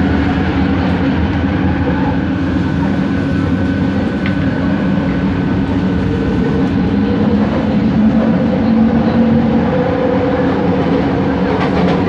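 Bombardier ART Mark II light-rail car running, heard from inside: a steady rumble of wheels on the track with humming tones from its original linear induction motor, the hum shifting in pitch about two-thirds of the way through.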